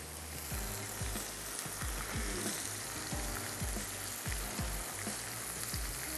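Minced meat (qeema) frying in hot oil in a wok with ginger-garlic paste and whole garam masala: a steady sizzling hiss as it is stirred with a spatula.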